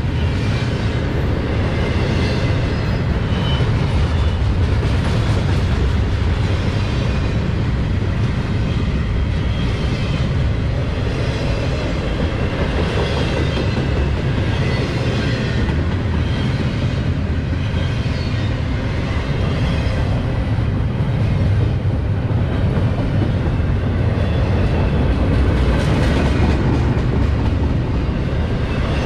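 Intermodal freight cars of a CSX train rolling past at speed, a steady loud rumble of steel wheels on rail.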